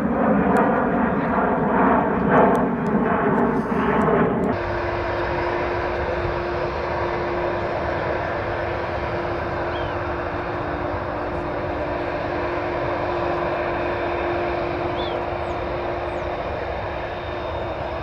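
Jet airliner engines: a loud jet roar that changes abruptly about four and a half seconds in to a steadier, quieter engine noise with a steady hum running through it.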